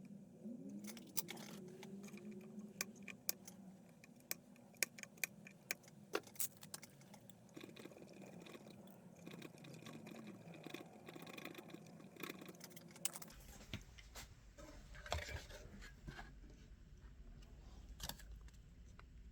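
Scattered sharp clicks and light taps of hand tools working on a TV power supply board during a MOSFET replacement. A low hum comes in about two-thirds of the way through.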